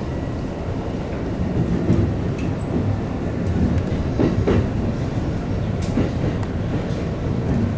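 JR Takasaki Line local electric commuter train running on the rails: a steady low rumble of wheels on track, with a few short rail-joint clacks about four seconds in.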